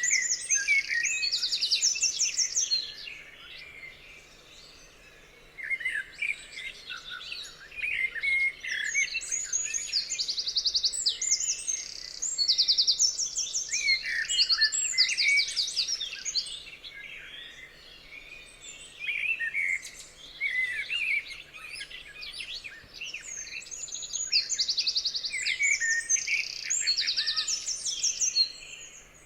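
Several songbirds singing at once, with overlapping chirps and rapid high trills. There is a short lull a few seconds in.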